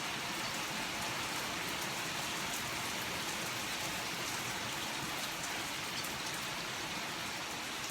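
Steady rain falling, an even continuous patter.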